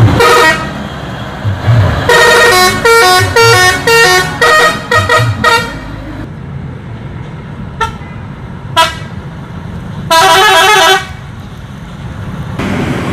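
Bus musical air horn ('telolet') playing a quick tune of short notes of changing pitch, then a short toot and a held blast about a second long, over the rumble of the bus's engine.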